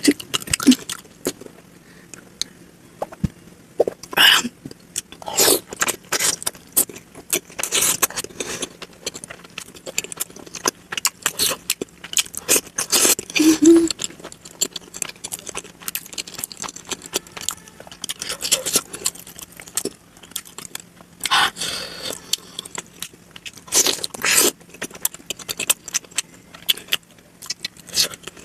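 Close-miked eating sounds of momo dumplings played at double speed: a dense, irregular run of wet clicks, smacks and crunches from chewing and biting, with some scraping.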